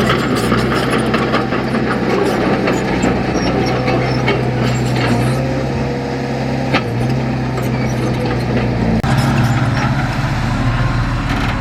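Heavy diesel engine of earthmoving machinery running steadily under load, with scattered knocks and clanks. The engine sound changes abruptly about nine seconds in.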